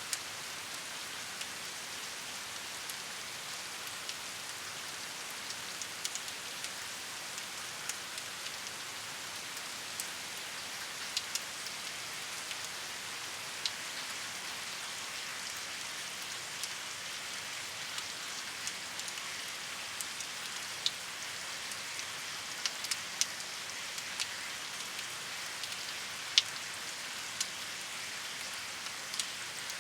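Steady rain falling, an even hiss with sharp ticks of single drops hitting a surface scattered through it, one louder drop about 26 seconds in.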